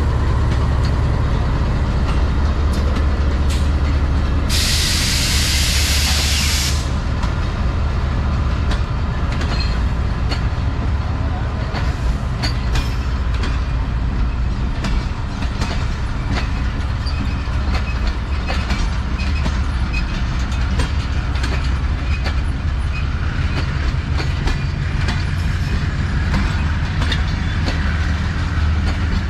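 Pakistan Railways diesel locomotive and its passenger coaches passing close by: steady engine rumble giving way to continuous wheel clatter on the rails. A sharp hiss comes about five seconds in and lasts around two seconds.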